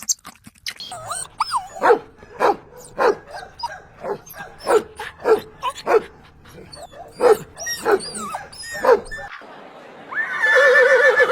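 A dog barking repeatedly, about two sharp barks a second. Near the end comes a longer, wavering animal call.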